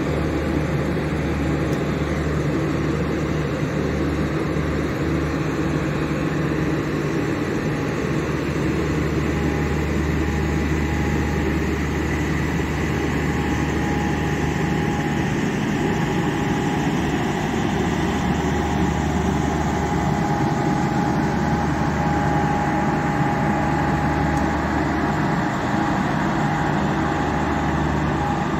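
Pakistan Railways passenger coaches rolling steadily past, a continuous rumble with a low hum under it and a faint high steady tone coming in about halfway through.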